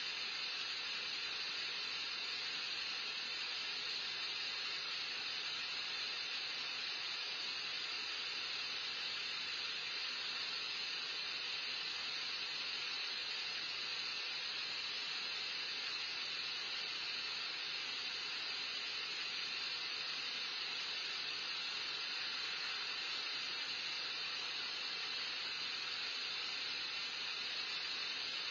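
Steady, unchanging hiss with no other sound.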